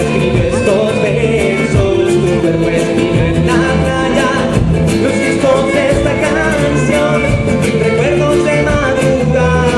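A band playing a Latin American folk song, with guitar, held melody notes and a steady beat.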